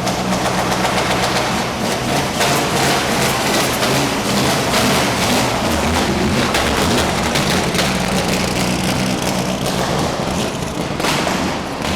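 Mitsubishi Lancer Evo VIII rally car's turbocharged 2.0-litre four-cylinder engine idling, with rapid irregular cracks and pops over the steady hum.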